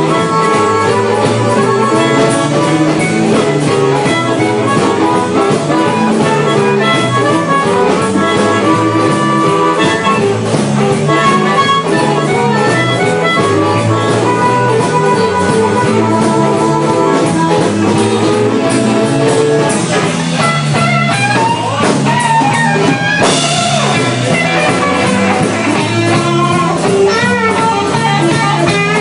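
Blues band playing an instrumental passage: electric guitar lines over bass and drum kit, at a steady loud level.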